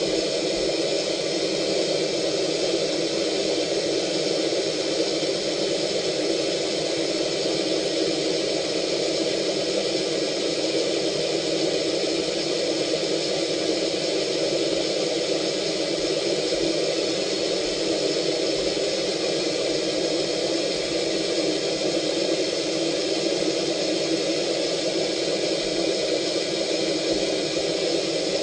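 Mark VII Aqua Jet GT 700 touchless car wash spraying high-pressure water: a steady hiss of spray that does not let up.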